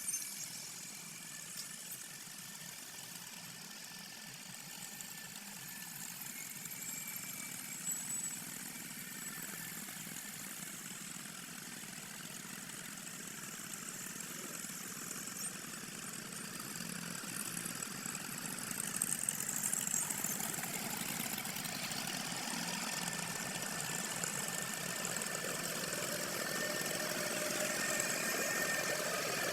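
Tractor engine running steadily, getting louder over the last ten seconds or so.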